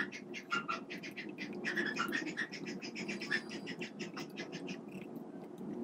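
Birds chirping, with many short, rapid chirps overlapping, over a steady low hum.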